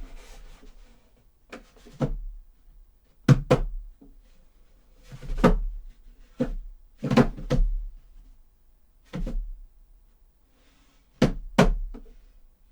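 Foley footsteps: shoes stepping on wooden boards, about ten uneven knocks, some in quick pairs.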